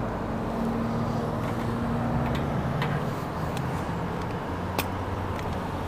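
Vehicle engine running steadily at low revs, with a few sharp clicks about halfway through and again near the end.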